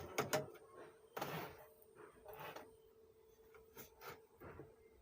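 Scattered small clicks and knocks of hands and tools working on an amplifier, with a brief scraping rustle about a second in, over a faint steady hum.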